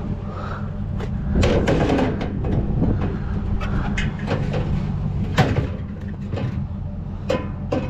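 Scrap metal pieces clanking and rattling as they are handled, a string of sharp knocks, loudest about a second and a half in and again past the middle, over a steady low engine hum.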